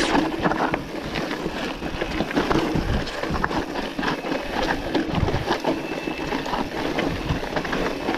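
Mountain bike rolling over a rough dirt trail: steady tyre and riding noise with frequent rattles and knocks from the bike.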